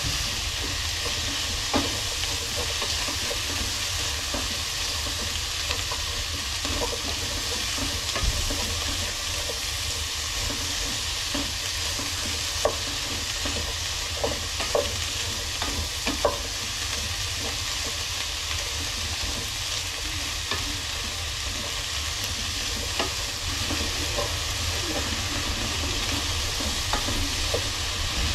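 Vegetables for a Japanese curry frying with a steady sizzle in a pan, stirred with a utensil that clicks against the pan now and then.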